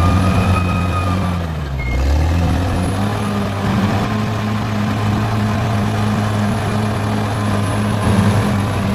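Caterpillar D6R XL bulldozer's diesel engine running steadily under load, its pitch sagging briefly about a second and a half in and then picking back up, with a faint high whine over it.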